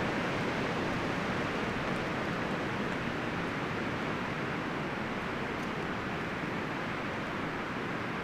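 Wind rustling through the leaves and branches of forest trees, a steady, even rush.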